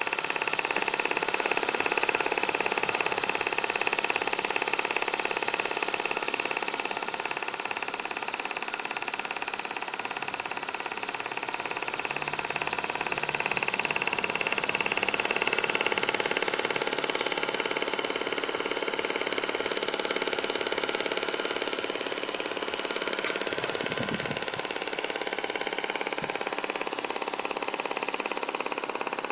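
A model marine steam plant running steadily: a small steam engine of 5/8-inch bore and stroke turning over, with a continuous hiss from the boiler and burner.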